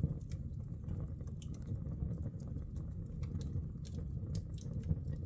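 Wood fire burning in a Nordflam corner fireplace: a steady low rumble with many sharp, irregular crackles and pops of the logs.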